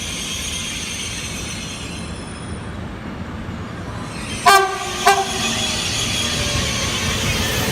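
A train horn sounds two short blasts about half a second apart over the steady noise of a train. Afterwards the rumble and wheel noise of the passing train grow louder.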